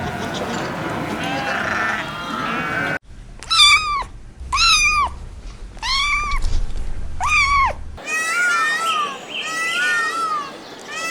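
Animal calls in three spliced clips: overlapping bleating calls, then four separate calls that each rise and fall, about one a second, then a flurry of many short, high, overlapping calls.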